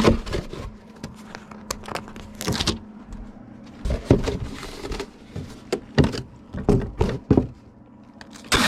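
Hands packing a bubble-wrapped stack of comic books for shipping: bubble wrap rustling and crinkling, with short irregular knocks and scrapes of handling. A faint steady hum runs underneath.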